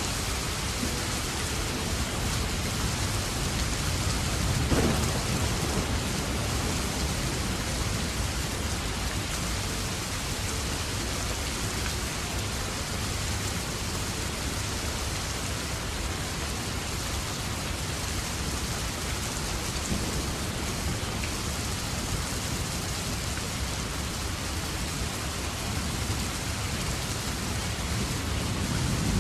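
Steady rain falling, an even hiss with a low rumble underneath, and one brief louder thump about five seconds in.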